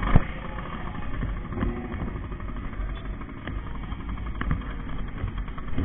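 Motorcycle engine running at a low idle, a steady low rumble with a few scattered knocks, the sharpest just after the start.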